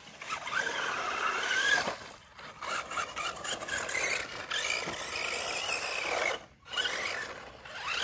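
Electric motor of a small radio-controlled car whining, rising and falling in pitch as it speeds up and slows, over a rough scraping and rattling. The sound briefly drops away about six and a half seconds in.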